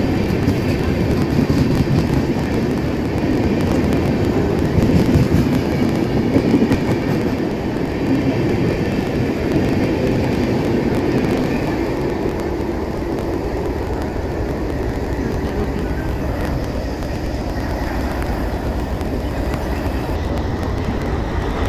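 A train running on the rails: a steady rumble of wheels and carriages that eases off slightly after about seven seconds.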